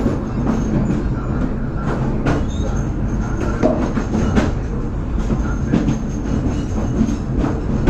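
Train running, heard from on board: a steady low rumble of wheels on the rails with irregular clacks and knocks, and a faint, thin, high wheel squeal that comes and goes in the second half.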